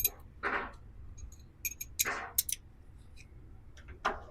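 Hand tools working on steel car body parts: a sharp metallic click with a brief ring at the start, scattered clicks and clinks, and three short rasping noises about half a second, two seconds and four seconds in.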